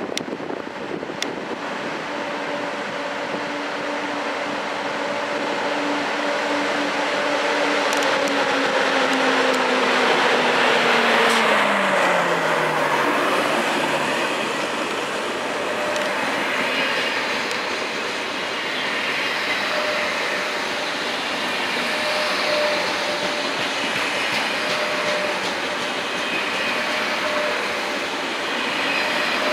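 TGV Atlantique high-speed trainset running past a station platform with a steady rolling rumble. A hum from the train holds, then glides down in pitch between about nine and thirteen seconds in, after which the rumble of the passing cars continues.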